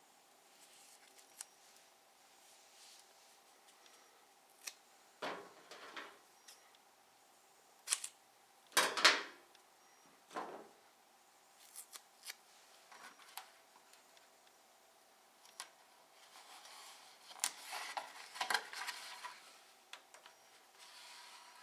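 Double-sided poster tape being peeled off its roll and cut into strips: a series of short, irregular rasps and snips. The loudest comes about nine seconds in, and a busier cluster follows near the end.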